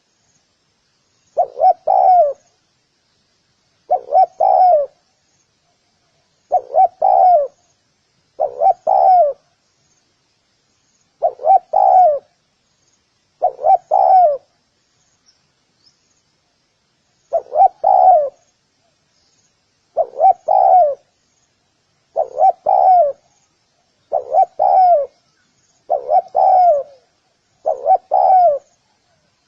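Spotted dove cooing: about a dozen short phrases of two or three coos each, repeated roughly every two seconds, with a longer pause about halfway through. Faint high chirps run underneath.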